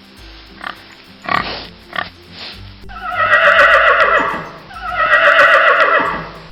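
A pig grunting in short bursts, then a horse neighing twice: two long, loud, wavering whinnies about three seconds in and again near the end, with background music underneath.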